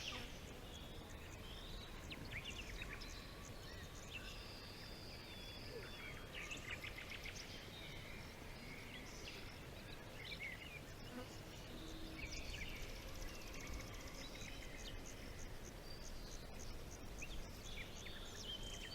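Forest ambience: several birds chirping and trilling over a steady low background rumble.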